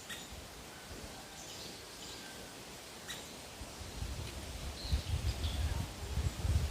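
Midday forest ambience: faint, scattered bird chirps, with irregular low rumbling bursts that build from about four seconds in and grow louder toward the end.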